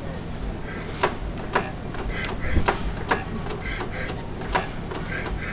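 Kelvin two-cylinder marine engine running on its petrol starting fuel, a steady low hum with sharp, irregular ticks two or three times a second.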